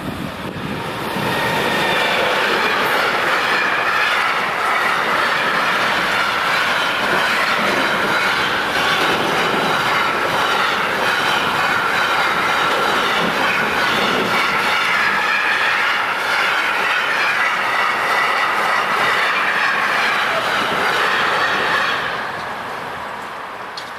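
Container freight train passing over a level crossing: the wagons' wheels rolling on the rails with a steady high-pitched squeal. It is loud from about two seconds in and dies away near the end as the last wagon clears.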